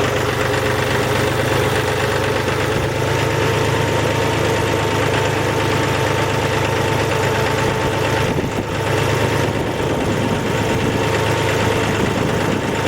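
Tractor engine running steadily, its rapid even firing under a steady whine.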